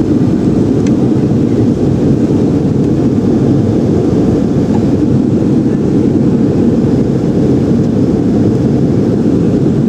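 Steady cabin noise of a jet airliner in its climb: an even, loud rumble of the engines and rushing air, heaviest in the low range and unchanging throughout.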